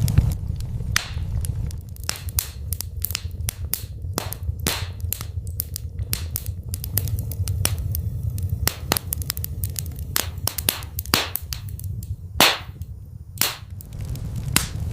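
Fireplace fire crackling, with many irregular sharp pops over a steady low rumble; a couple of louder pops come in the last few seconds.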